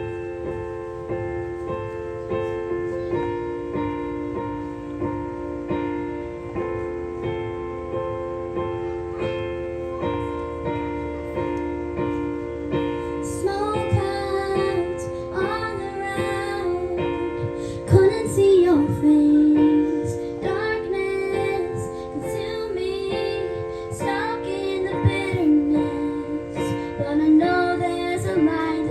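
Keyboard intro of sustained piano chords changing every few seconds. About halfway through, a young female voice comes in singing over the chords.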